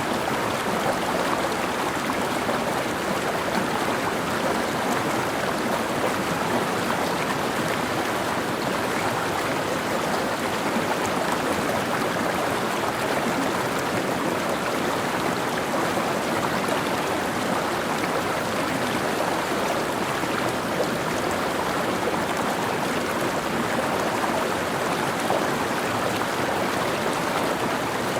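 Mountain stream flowing over rocks, a steady rushing and splashing of water.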